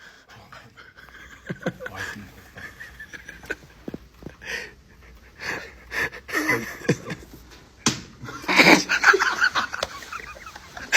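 A person laughing in short, breathy bursts, loudest about nine seconds in.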